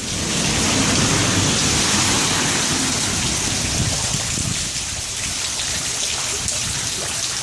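Heavy rain pouring and splashing on the ground, a steady hiss, with a low rumble that swells about a second in and slowly dies away.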